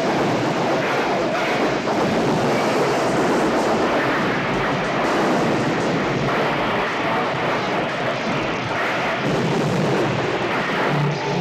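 Loud, continuous helicopter-chase sound effects from a film soundtrack: aircraft noise mixed with an explosion-like roar that holds steady throughout, easing slightly near the end.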